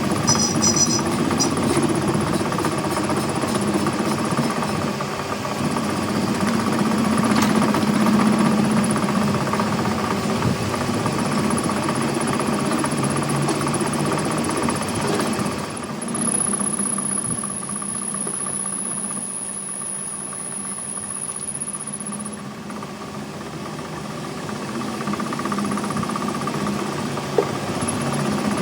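A machine running steadily with a mechanical rattle and a steady hum, typical of workshop machinery at work. A thin high whine joins it for several seconds past the middle.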